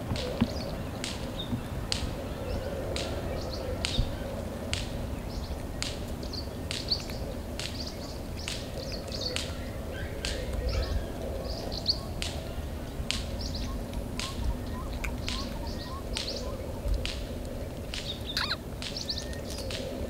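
Small birds chirping: short, sharp chirps about once a second, with other higher calls between them, over a faint steady low hum.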